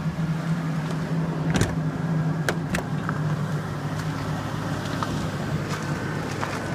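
Old truck's engine idling steadily on a cold morning, left running to warm up after a reluctant start. A few sharp clicks sound near the middle.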